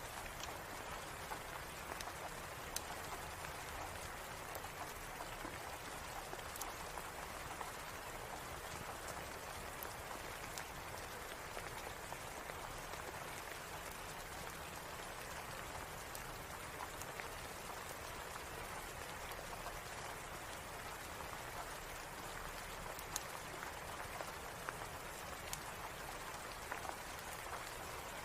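Steady rain, an even hiss with scattered sharp clicks.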